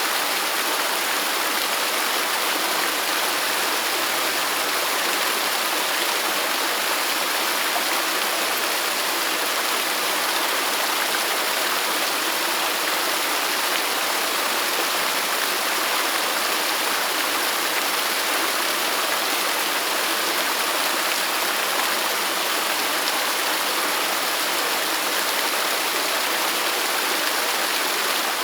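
Waterfall: falling water rushing in a steady, even hiss, bright and with little low rumble, unchanging throughout.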